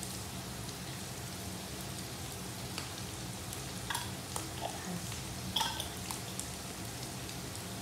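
Shredded boiled chicken and browned garlic frying in oil in a nonstick wok: a steady sizzle with a few scattered crackles.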